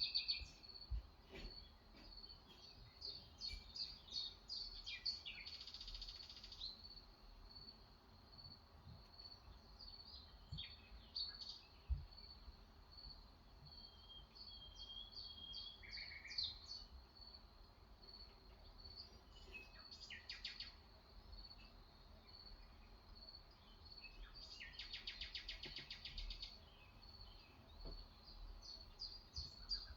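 Several birds chirping and singing outdoors in short calls and trills, over a steady, rapidly pulsing high insect trill. A few faint clicks are also heard.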